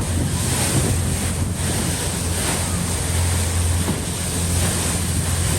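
Fast ferry underway: a steady low engine drone under rushing water, with wind buffeting the microphone.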